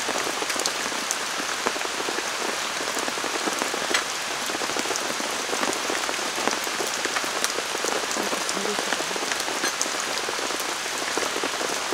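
Heavy, unbroken downpour of rain falling steadily, with many small sharp drop hits throughout.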